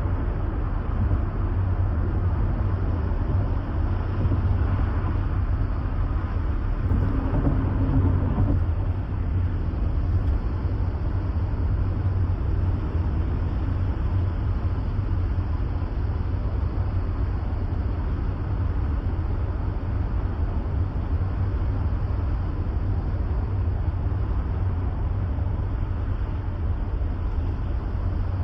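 Steady road and engine rumble heard from inside a car's cabin at highway speed, mostly deep and low. About seven seconds in there is a brief louder stretch with a low hum, then the steady rumble carries on.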